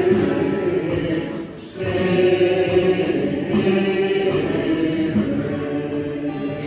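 A congregation singing a hymn together, the voices tapering off near the end.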